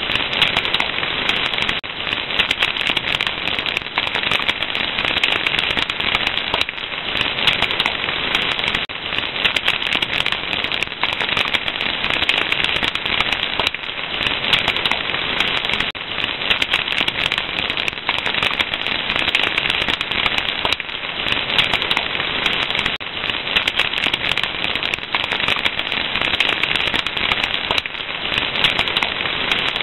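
Wood fire crackling steadily, a dense run of small pops and snaps over a hiss.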